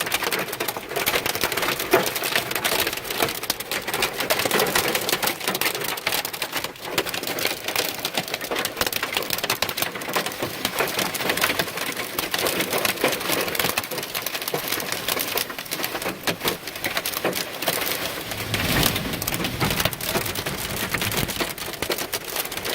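Rain and hail pelting a car, a dense, unbroken patter of small hits. A low rumble joins in near the end.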